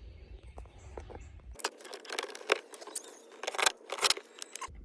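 Scattered clicks and light metallic rattles of parts and tools being handled while interior trim and center-console bolts are fitted, busiest in the second half.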